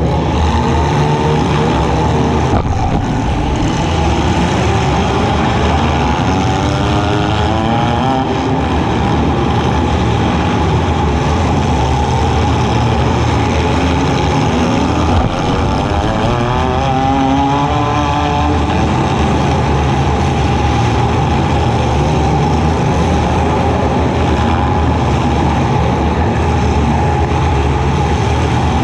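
Demolition-derby compact car's engine running loud and steady, revving up and back down twice.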